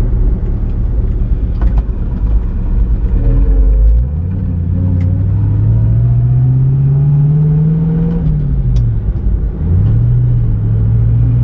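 Pontiac Firebird engine and road rumble while driving. About four seconds in, the engine note starts climbing steadily as the car accelerates, drops sharply at a gear change, then picks up again and holds steady.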